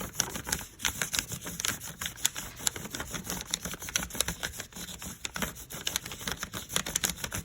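Flat of a crayon rubbed back and forth on paper laid over a piece of bark, giving quick, irregular scratchy strokes.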